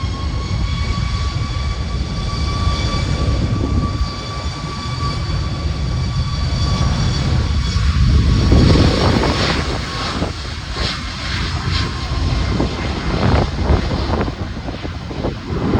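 Jet airliner passing close by, its engines giving a steady high whine over a heavy rumble that is loudest about halfway through. The whine fades out a few seconds before the end, leaving gusts of wind on the microphone.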